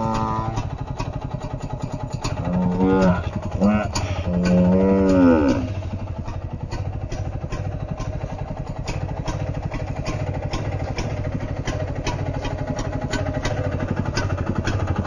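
A chainsaw engine idling steadily, with a regular fast pulse. Over the first six seconds a few long, drawn-out calls sound above it, one of them falling in pitch.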